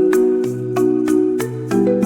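Background music: mallet-percussion notes like a marimba struck in a steady rhythm, about three a second, over held chords.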